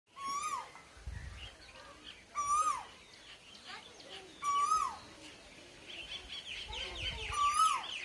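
A bird calling four times, about every two seconds, each call a short note that rises then falls. From about six seconds in, other birds join with a quick run of fast, high chirps.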